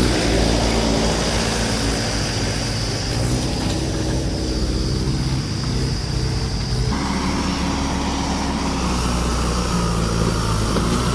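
Heavy diesel engine running steadily under load, with the sound shifting abruptly about two-thirds of the way through.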